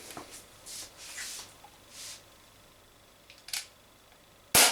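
Umarex XBG CO2 BB pistol firing a single shot near the end, a sharp crack, with a small click about a second before it.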